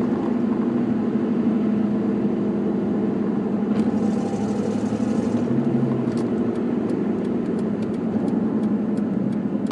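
Ford Mustang GT's 4.6 L V8 under way through the exhaust, running steadily, with sharp ticks repeating a few times a second from about six seconds in. The tick comes with acceleration after a shift and was traced to a leaking flange gasket between the passenger-side header and the mid-pipe.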